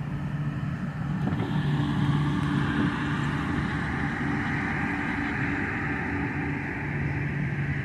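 Steady low engine hum with a rushing noise that swells around the middle and then settles.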